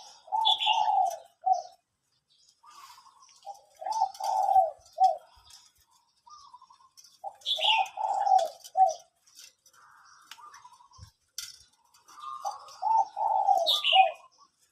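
A dove cooing, four phrases of a few quick coos each repeated every three to four seconds, with short high chirps around them.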